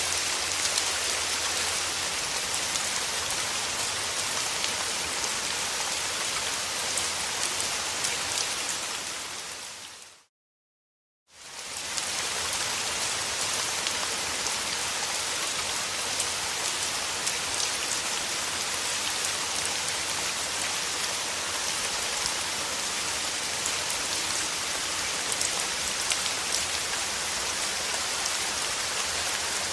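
Steady rain falling, with many fine drops ticking in the hiss. About ten seconds in it fades out to a second of silence, then fades back in.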